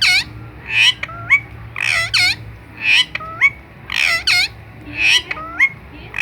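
Pet parakeet squawking, about one call a second, each a harsh screech followed by a short note that slides sharply upward.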